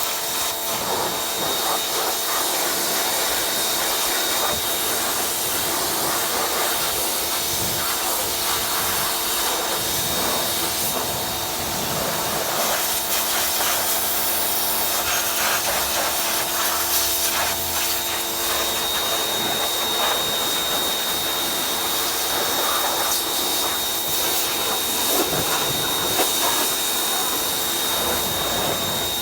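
Pressure washer running steadily: a constant motor-pump hum under the hiss of the water jet, with uneven spatter as the spray strikes the mud-caked dirt bike.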